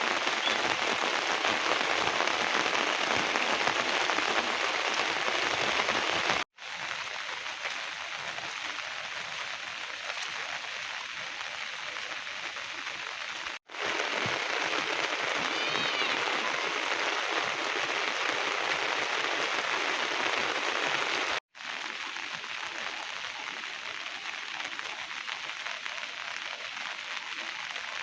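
Heavy rain falling steadily, heard in four cut-together stretches that alternate between louder and softer. A brief high chirp sounds about sixteen seconds in.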